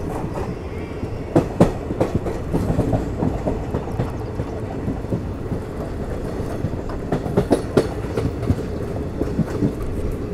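Passenger train coach running along the track, its wheels clattering and knocking over the rails under a steady rumble, heard close beside the coach. The sharpest knocks come about a second and a half in and again around eight seconds in.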